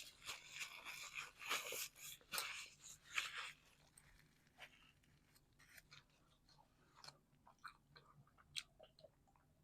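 A person biting and chewing a baked calzone, with crunchy bites over the first few seconds, then fainter, scattered mouth clicks as the chewing goes on.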